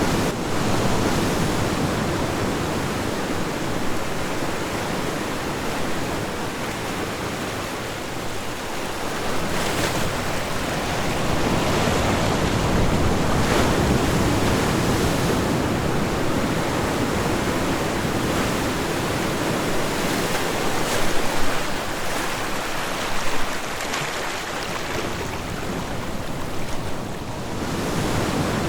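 Ocean waves breaking and washing on a shore, rising and falling in a continuous roar of surf, with a few brief louder splashes late on.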